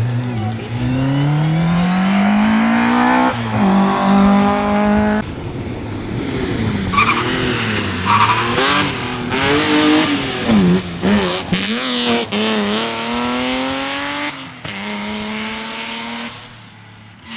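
Rally car engine accelerating hard, its pitch climbing for about three seconds before a gear change, then revs rising and falling repeatedly as the car drifts, with tyre squeal. The engine sound drops away near the end as the car leaves.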